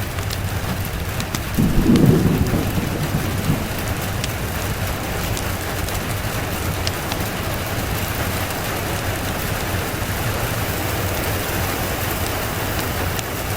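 Steady rain falling, with a low roll of thunder about two seconds in that swells and fades over about two seconds.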